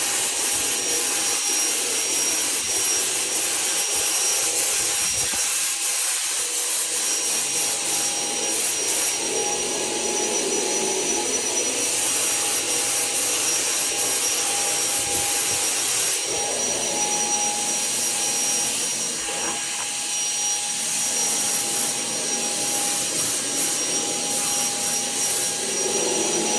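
HVLP turbine paint sprayer running steadily, a constant blowing hiss with a high whine, as the top coat is sprayed over the primed chip repairs.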